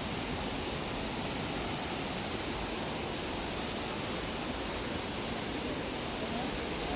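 Steady rushing of flowing river water, an even noise that holds at one level without a break.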